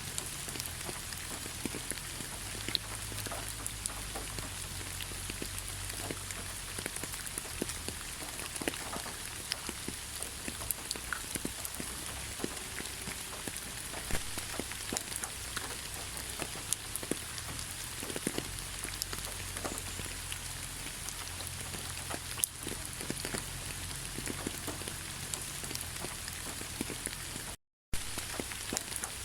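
Steady rain falling in a pine forest: an even hiss with many separate drops ticking on branches and ground. The sound cuts out to silence for a split second near the end.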